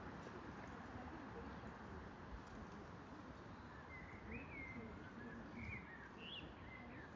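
Wild birds calling over a steady outdoor hiss: faint low, wavering calls, then from about four seconds in a short run of higher chirping phrases.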